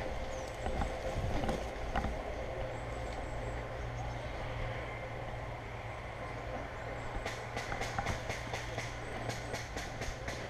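Steady low rumble on the microphone, then from about seven seconds in a rapid run of sharp clicks, several a second: airsoft guns firing during the game.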